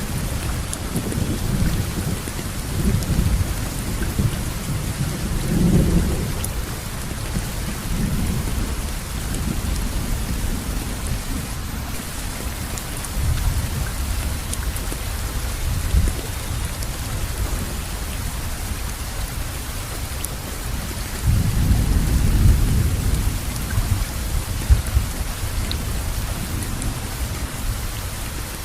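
Steady rainfall with low rolling thunder that swells several times, loudest about three quarters of the way through.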